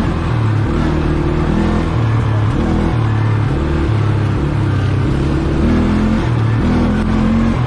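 ATV engine running under way, its note stepping up and down every second or so as the throttle opens and closes.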